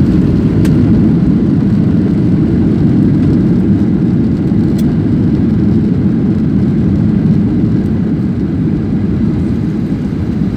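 Steady, loud low rumble of a passenger airliner's engines and airflow, heard from inside the cabin.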